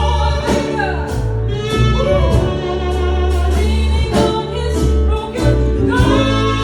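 Live band playing with a lead vocalist singing over sustained bass notes and regular drum hits.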